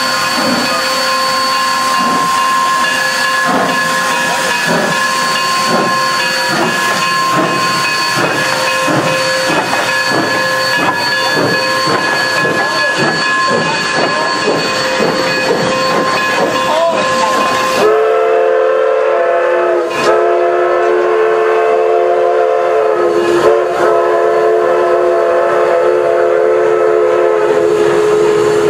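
Narrow-gauge steam locomotive 482 of the Durango & Silverton pulling out, its exhaust beats under steady steam tones and hiss. About 18 seconds in, a long, steady steam whistle blast starts and holds to the end.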